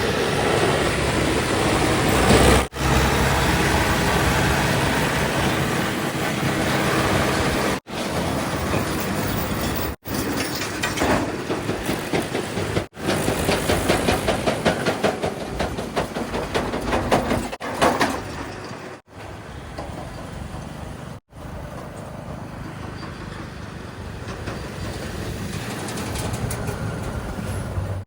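Heavy diesel machinery and vehicles running, in several short stretches broken by abrupt cuts, with a rattling, clattering stretch in the middle.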